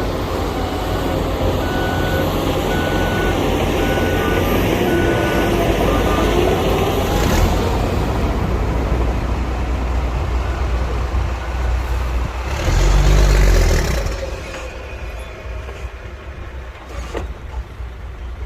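Dump truck's diesel engine running with its reversing alarm beeping steadily, about once a second, for the first six seconds. A short hiss follows, then the engine surges loudly for about a second and a half before settling lower.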